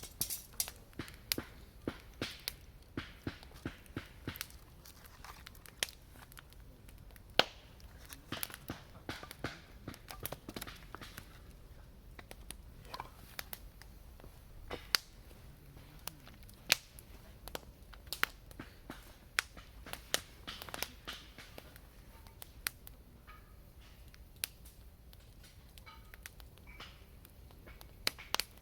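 Firewood burning in a campfire, crackling with irregular sharp pops and snaps, a few of them loud.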